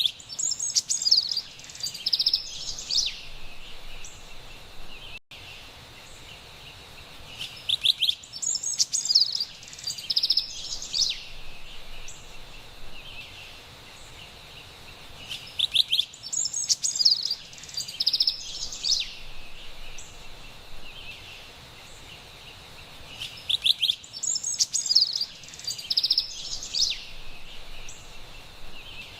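Carolina wren singing: four bouts of rapid, high, repeated phrases, each about three seconds long and about eight seconds apart, over a steady high background hiss.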